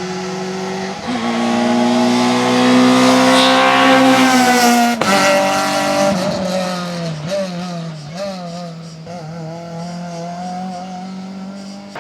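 Rally car engine under hard acceleration, its note climbing steadily for about four seconds. It breaks off sharply about five seconds in, then runs at a lower pitch that wavers up and down before holding steady.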